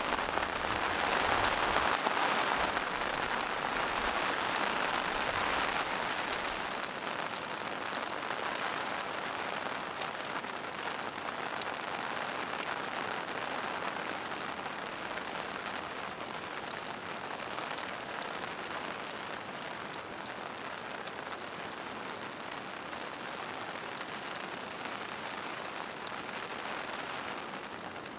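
Steady rain falling through forest foliage and onto rocks, an even hiss with scattered drop ticks, a little heavier in the first several seconds.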